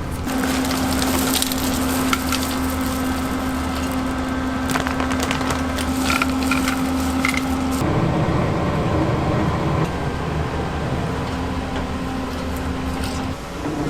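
Firewood crackling and snapping in a large wood-fired chicken-roasting oven, with scattered sharp cracks over a steady low hum. The hum cuts out about eight seconds in, and the crackles thin out after it.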